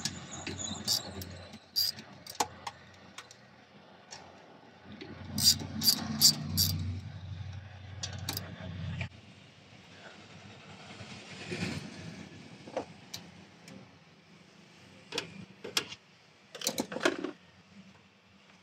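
Scattered metallic clicks and clinks of hand tools and small bolts being worked on car body metal, with a low rumble for a few seconds in the first half.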